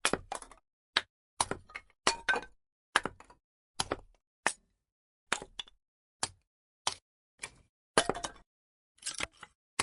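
Burning firewood crackling: irregular sharp pops and snaps, one or two a second and sometimes in quick clusters, with short silent gaps between.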